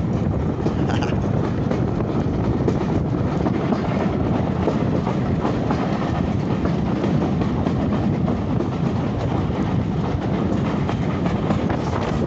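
Steam-hauled heritage train carriages running along the track: a steady rumble of wheels on rails with a scatter of clicks from the wheels over the rail joints, heard from a carriage window.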